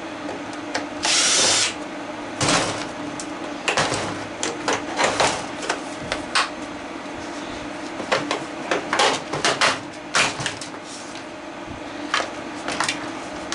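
A power drill driving screws out in a short burst about a second in, followed by a scattered string of clicks and knocks as plastic parts and tools are handled.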